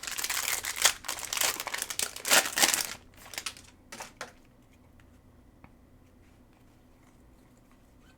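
A Panini Mosaic football card pack's wrapper being torn open and crinkled for about three seconds, followed by a few light taps of handling.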